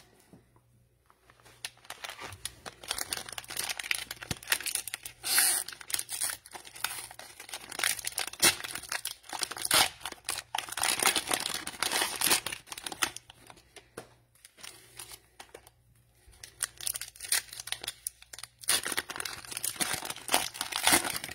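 Cellophane wrapper of a trading-card cello pack being torn open and crinkled, in irregular crackling spells with a short lull about two-thirds of the way through.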